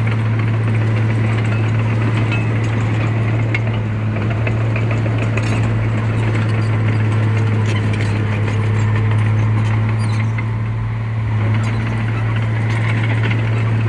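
Heavy diesel engine of an earthmoving machine running steadily with a low, even drone, with a few light clanks over it.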